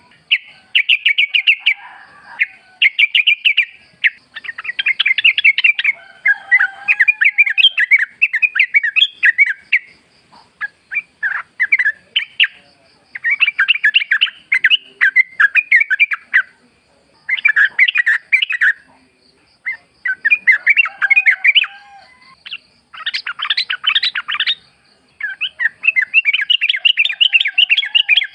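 Sooty-headed bulbul (trucukan) singing: repeated bubbly phrases of quick chattering notes, each a second or two long, with short pauses between.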